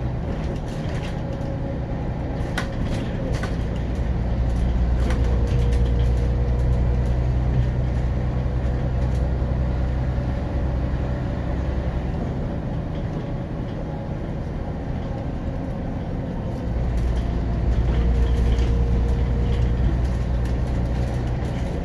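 Scania DC9 five-cylinder diesel of a Scania CN94UB Omnicity city bus running, heard aboard the bus. The engine note swells twice into longer louder stretches with a thin whine alongside, and the body gives off occasional short rattles.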